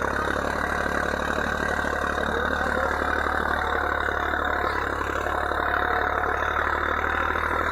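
Swaraj 963 FE tractor's diesel engine running steadily.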